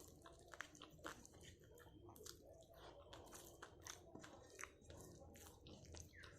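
Close chewing and biting of food, a rapid run of small crunchy clicks.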